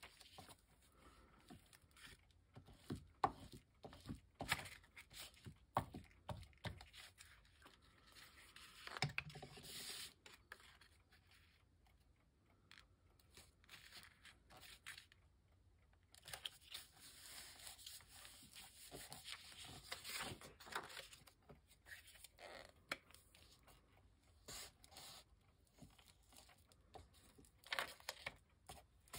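Quiet handling of paper pieces being glued down: scattered rustles, scrapes and small sharp ticks, with a lull about halfway through.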